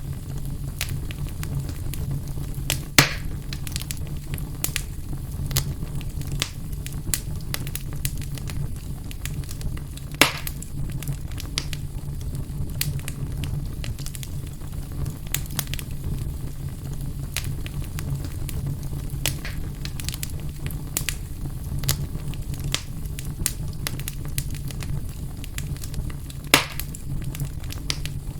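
Fire burning in a fireplace, crackling with frequent small pops and three louder snaps: near the start, about a third of the way in, and near the end. Underneath runs a steady low rumble.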